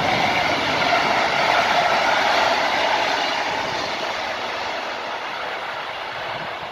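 PKP Intercity locomotive-hauled passenger train passing through a station, a loud steady rush of wheels on rails that fades slowly as the carriages run away into the distance.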